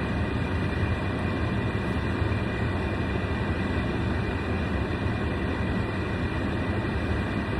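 Steady low rumble and hiss inside a running car's cabin, with the heater blowing.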